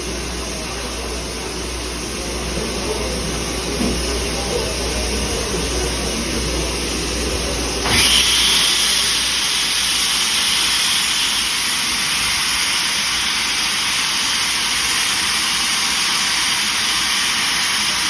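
A railway locomotive's engine running with a low rumble. About eight seconds in, a sudden loud, steady hiss takes over.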